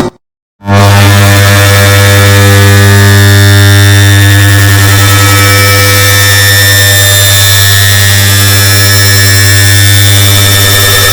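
An air conditioner's start-up sound, layered and boosted into a loud, distorted, steady hum with many overtones. It cuts out for about half a second just after the start, then comes back at full loudness.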